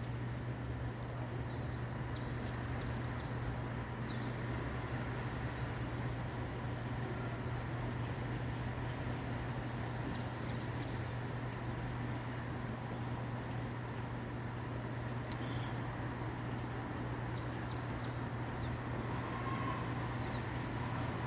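A small bird sings a short high phrase, a quick trill followed by a few falling notes, three times about seven to eight seconds apart, over a steady low hum.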